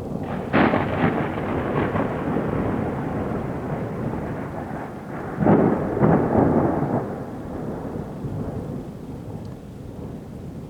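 Thunder rolling after a nearby lightning strike: a loud crack-like swell about half a second in, rumbling on, a second loud peal around five and a half seconds, then dying away.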